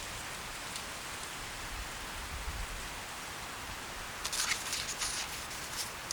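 Steady outdoor hiss with a short run of light crackles and ticks about four seconds in, and one more just before the end.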